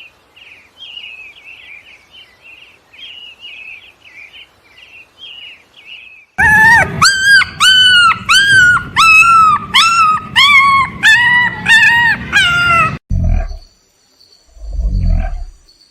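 Animal calls: faint high chirping, then about a dozen loud, high calls in quick succession, each rising and falling in pitch, followed by a few low, heavy sounds.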